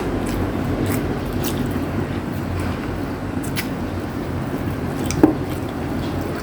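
Eating sounds of rotisserie chicken and rice being chewed: wet squishing and smacking with small scattered clicks, and one sharper click about five seconds in, over a steady low background hum.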